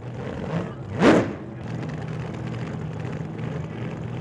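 Motorcycle engine running steadily, with one short rev about a second in that rises quickly in pitch.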